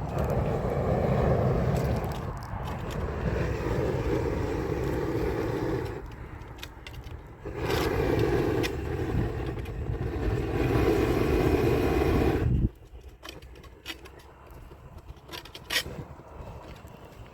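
Gas blowtorch burning with a steady rushing noise, as used to melt torch-on bitumen waterproofing membrane. It eases briefly about six seconds in, comes back, and cuts off suddenly about thirteen seconds in, leaving a few faint crackles and taps.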